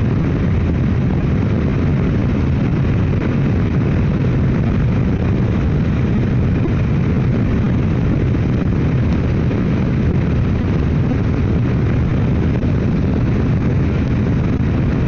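Motorcycle at steady highway speed: a constant low rush of engine and wind noise.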